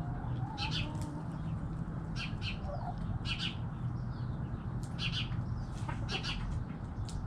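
Small birds chirping: short, high, sharp chirps repeated every second or so, with a few soft, low bird calls in between. A steady low rumble runs underneath.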